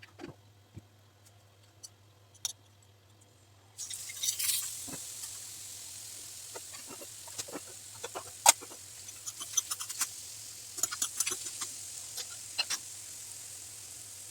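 Food sizzling in a hot pan: a steady sizzle starts suddenly about four seconds in, with scattered clicks and taps of a utensil against the pan.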